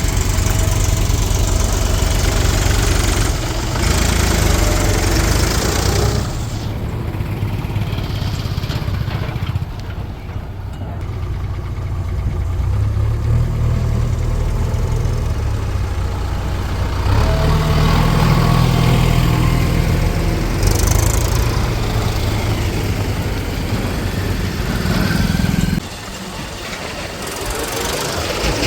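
Diesel engines of a JCB 3DX backhoe loader and a tractor running, the engine note swelling and easing several times as the loader works.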